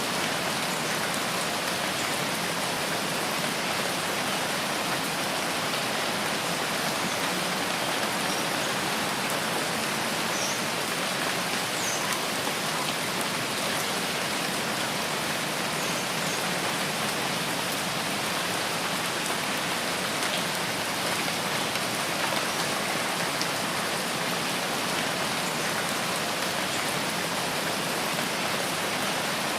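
Steady rain falling in a forest, an even hiss of drops on foliage and ground with no change through the whole stretch.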